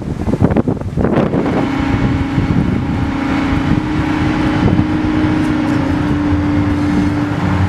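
Rough, irregular noise and knocks for about a second and a half, then an engine running at a steady pitch.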